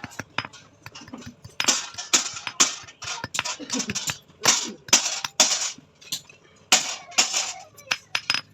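Steel being worked with hand tools: several rasping strokes about half a second long, mixed with sharp metallic clicks and clinks.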